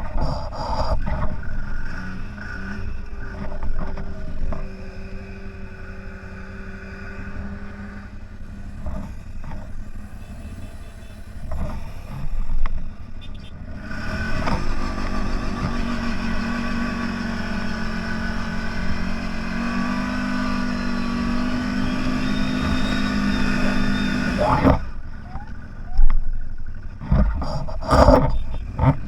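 CFMOTO 1000 off-road vehicle's engine running through deep snow. It runs at a moderate steady pitch at first, then about halfway through is held at higher revs for roughly ten seconds, climbing a step near the end of that stretch, before dropping away suddenly.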